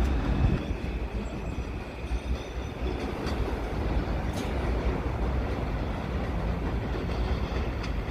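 New York City subway train running along the rails with a steady low rumble of wheels on track and a few sharp clicks.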